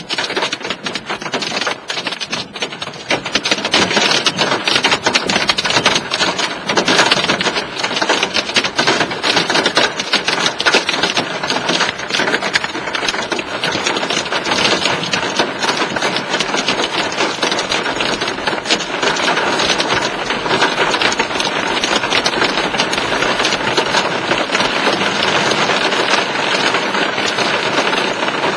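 Hail pelting a vehicle's roof and windows: a dense, rapid clatter of countless small impacts that gets heavier about three to four seconds in and stays loud.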